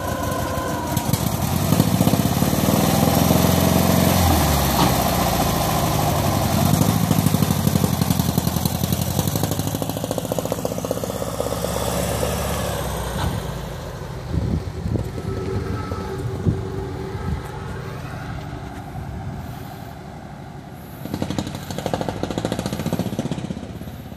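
Classic VW Beetle's air-cooled flat-four engine pulling away and accelerating, rising in pitch, dropping at a gear change about four seconds in and climbing again, then fading as the car drives off. The engine has a pulled cylinder head stud.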